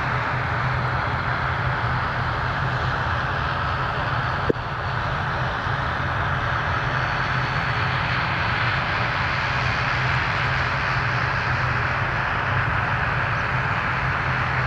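Aircraft engines running steadily, a constant even noise with a low hum underneath. A single sharp click about four and a half seconds in.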